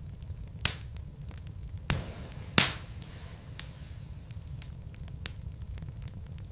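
Wood fire burning in a fireplace: a steady low rumble with scattered crackles and three louder pops, about a second in, near two seconds and the loudest just after, as the burning logs crackle.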